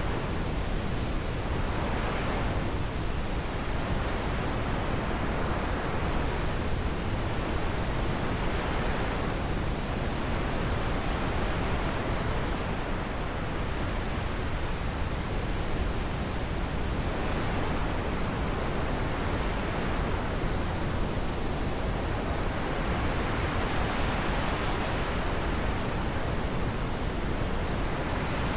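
Wind blowing in a steady, full rush, its higher hiss swelling and easing every few seconds.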